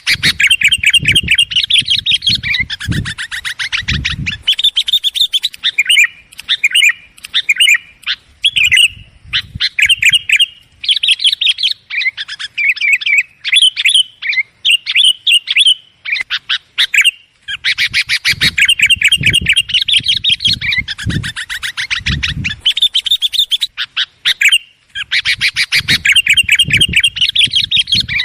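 Kutilang (sooty-headed bulbul) calling excitedly in fast, chattering trills, in long bouts with shorter calls between. This is a noisy lure call used to draw wild bulbuls. Low thumps sound under the busiest bouts.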